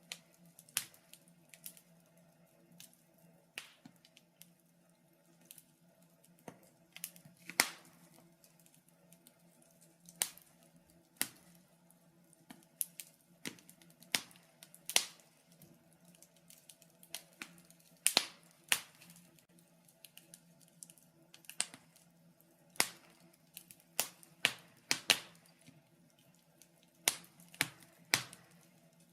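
Wood fire crackling in a fireplace: irregular sharp snaps and pops, sometimes several close together, over a faint steady low hum.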